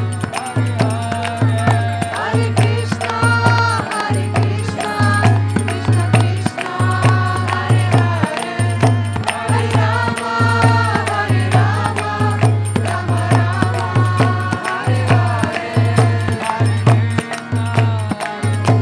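Kirtan music: voices chanting a mantra over a drum beating a steady low pulse, with metallic hand-cymbal strikes throughout.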